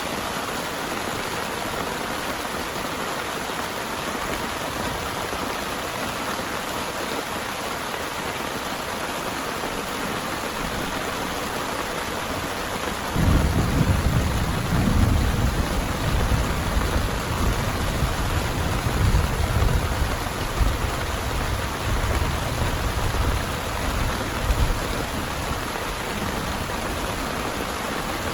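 Heavy rain falling steadily. About halfway through, a roll of thunder breaks in suddenly and rumbles low for about ten seconds, rising and falling before it fades.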